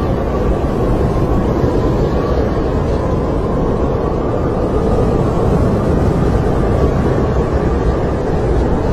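Strong snowstorm wind blowing steadily with a deep rumble and a faint whistle that slowly rises and falls in pitch.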